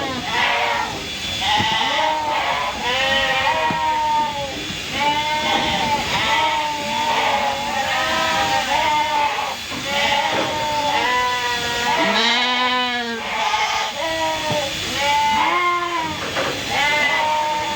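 A flock of sheep bleating, many calls overlapping one after another without a break. About twelve seconds in comes one long, quavering bleat.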